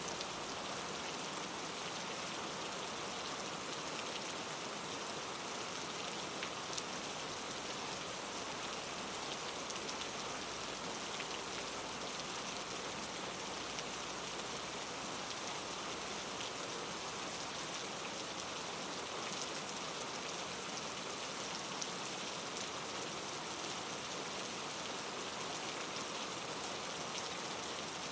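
Steady patter of falling precipitation: an even hiss with faint scattered ticks.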